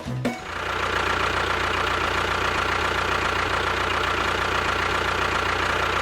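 A small motor running at a steady speed, with a thin high whine over a low hum. Background music cuts off just before it starts.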